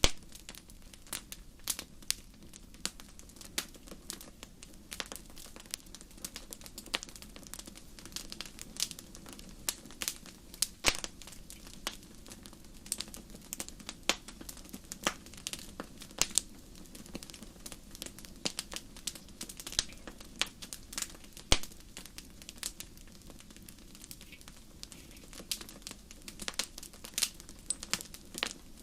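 Wood fire crackling in a fireplace: irregular sharp pops and snaps, several a second, a few louder cracks standing out, over a low steady rumble of burning.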